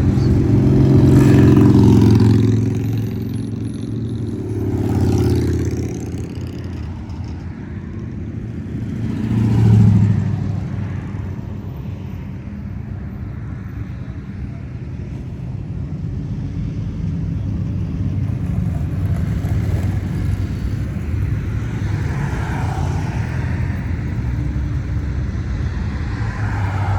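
Classic cars driving past one after another, their engines running with a low rumble. Passes swell and fade at about a second in, near five seconds, and most sharply near ten seconds, with steady traffic noise between.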